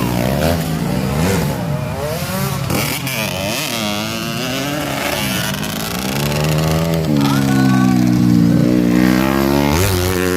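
Several motocross bike engines racing, their pitches rising and falling and crossing one another as riders rev and shift. About seven seconds in, one engine holds a loud, steady note.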